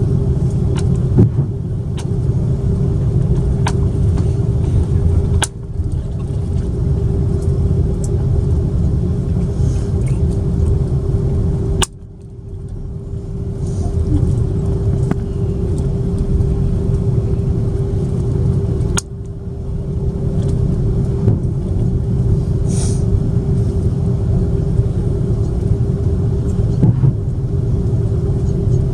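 Cabin noise of an Airbus A330-300 taxiing after landing: a steady low rumble with a constant hum. It drops out suddenly three times and swells back.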